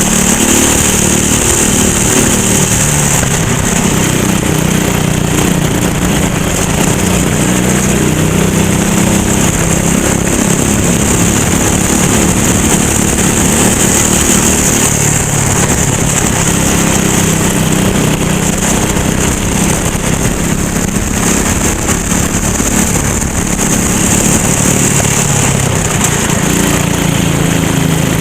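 Go-kart engine running hard through a race lap, its pitch repeatedly climbing and dropping as it accelerates and backs off. A steady high hiss runs underneath.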